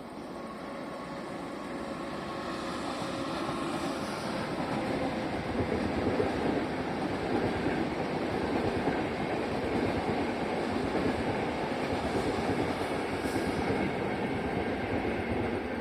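Train passing on the line, the rumble of its wheels on the rails building up over the first five seconds or so and then holding steady and loud.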